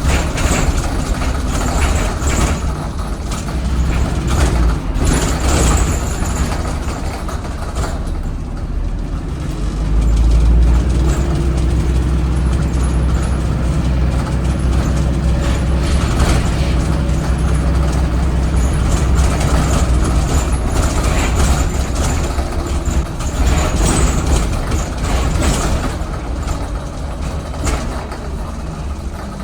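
Cummins ISBe 4.5-litre diesel engine of an ADL Enviro 400 MMC hybrid bus running hard under heavy throttle, a steady low drone that swells louder about ten seconds in, with scattered short knocks and rattles.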